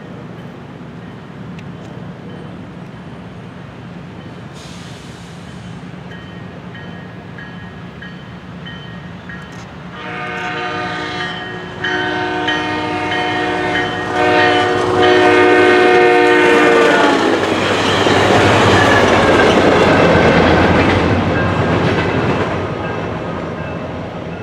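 Train approaching with a steady low engine hum, sounding its chord horn in several blasts, the last one long, then passing close with loud rail and wheel noise that fades away.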